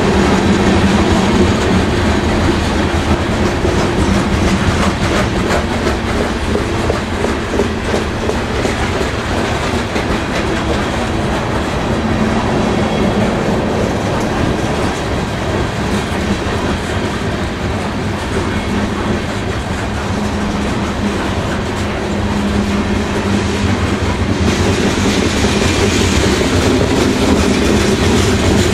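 Coal train rolling past: steel coal cars rumbling and clicking over the rail joints, with the drone of a mid-train Canadian Pacific diesel locomotive working under smoky exhaust as it goes by. The sound grows brighter and hissier about 25 seconds in.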